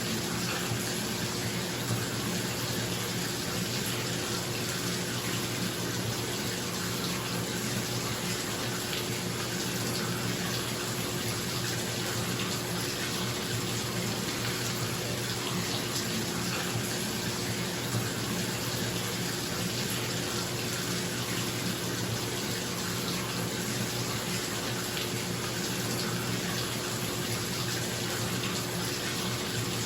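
Bathtub tap running steadily, water pouring into the tub, with a bathroom exhaust fan humming underneath. The sound is constant and unchanging.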